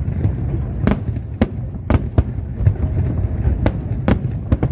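Aerial fireworks going off: sharp bangs at uneven intervals, several close together near the end, over a steady low rumble.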